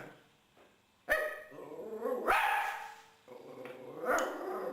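Chihuahua barking: three barks about a second apart, the last one drawn out.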